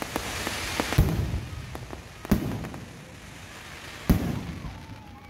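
Aerial fireworks bursting overhead: three sharp bangs, about a second in, past two seconds and just past four seconds, over a crackling hiss from the burning stars that is strongest in the first second and a half.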